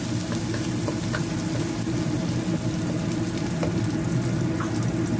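Dried Medan anchovies and chopped garlic sizzling steadily in hot oil in a wok as they are stir-fried with a wooden spatula, with a few light knocks.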